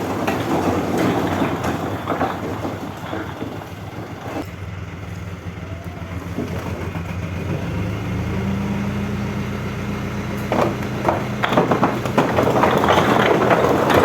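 Heavy truck engine running, picking up revs about eight seconds in and holding a higher note for a few seconds, with a few knocks and then a louder rush of noise near the end.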